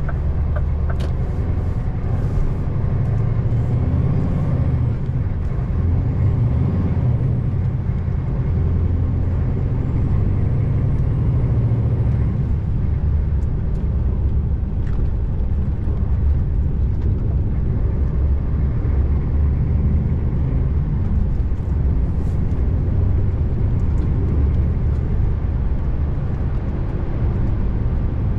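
Scania R590's V8 diesel pulling the truck along, a steady low rumble heard from inside the cab.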